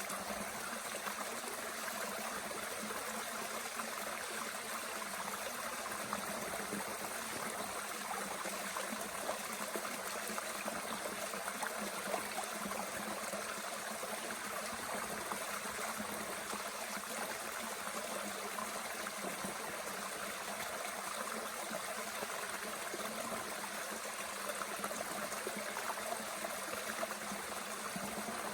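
Mountain stream running steadily, with a few faint clicks now and then.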